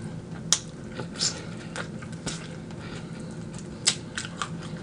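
Chewing fried chicken wings close to the microphone: scattered crisp clicks and soft crunches at an uneven pace, the sharpest about half a second in and just before four seconds, over a faint steady low hum.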